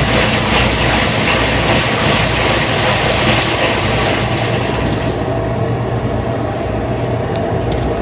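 Front-load washing machine running: a steady low hum under a continuous rushing, rumbling noise, the higher hiss thinning out about five seconds in.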